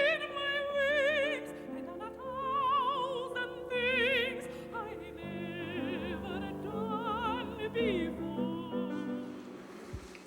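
Operatic soprano singing sustained phrases with a wide vibrato over instrumental accompaniment, dying away near the end.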